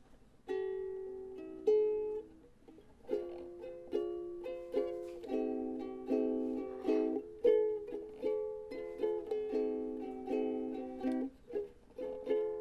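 Ukulele playing a chord progression: two ringing chords, a short pause, then steady rhythmic strummed chords.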